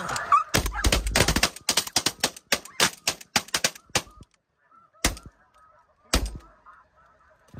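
Shotguns fired in a rapid volley by several hunters at flying snow geese: a dense string of blasts for about three and a half seconds, then two single shots about a second apart. Snow geese honk faintly behind the shots and on after them.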